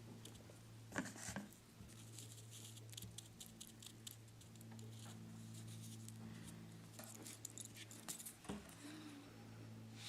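Dry tobacco leaf crackling and rustling faintly as it is crumbled and packed into a pipe carved from a carrot, with a few small ticks, over a steady low hum.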